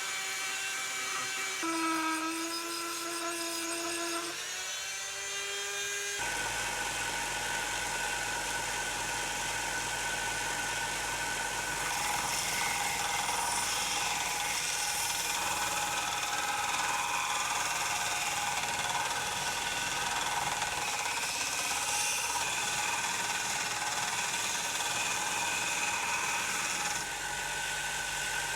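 Power tool running: a pitched motor whine that shifts in pitch for about the first six seconds, then gives way to a denser, steady machine noise.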